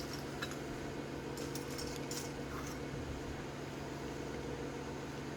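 A few faint clicks and light rustles of plastic model-kit parts being handled, over a steady low hum.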